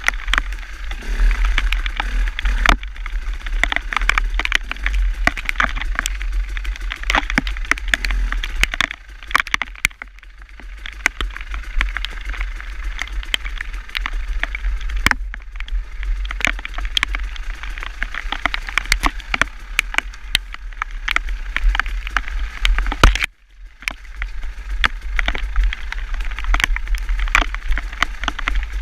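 Wind rumbling on the microphone of a moving vehicle, with many scattered sharp taps of rain striking it. The sound briefly cuts out about 23 seconds in.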